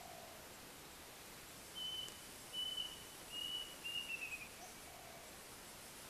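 A songbird whistling four clear high notes in a row, the last one slurring downward, with a dove cooing faintly in the distance.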